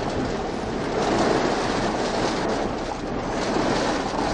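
Steady rushing noise of storm wind.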